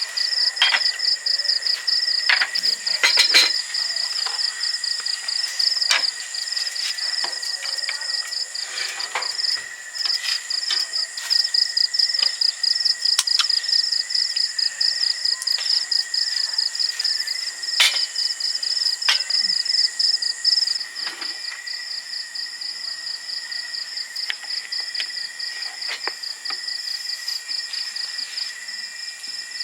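A chorus of insects trilling, with a fast, even pulsing high trill and steadier high tones, and scattered sharp ticks and taps through it.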